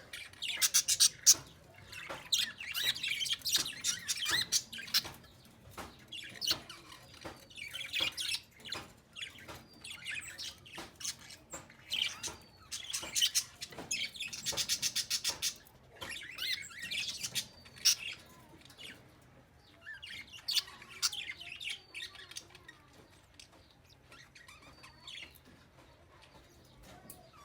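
Small bird chirping: many short high chirps and quick rattling series of chirps, busiest in the first half and thinning out toward the end.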